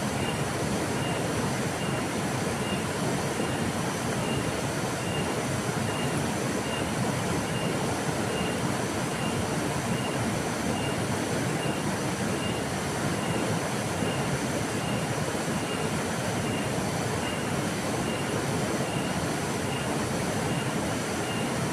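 River water flowing with a steady, even rush. A faint high chirp repeats about three times every two seconds.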